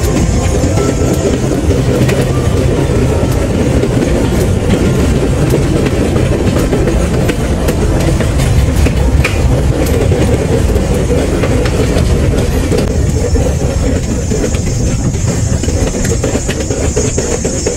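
Pedal-powered rail bike's steel wheels rolling along the railway track: a steady rumble with irregular clicks as the wheels pass over the rail joints.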